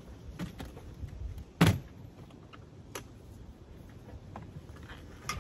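A few knocks and clicks of fittings being handled and pulled loose inside a pop-up camper being torn out, with one louder thump just under two seconds in.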